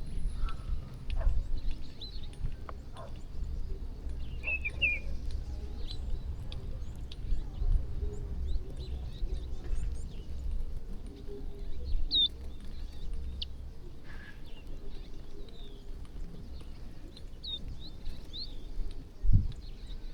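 A flock of birds chirping in short, scattered high calls over a steady low rumble, with one dull thump near the end.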